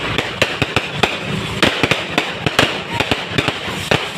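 Fireworks going off in rapid, irregular bangs, several a second, over a continuous crackle.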